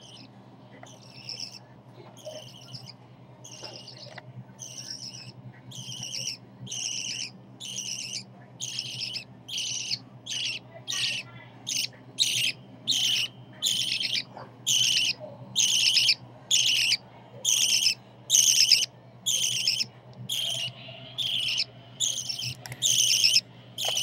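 A 27-day-old hand-reared budgerigar chick calling over and over with short, raspy, high chirps, about three every two seconds, faint at first and growing steadily louder.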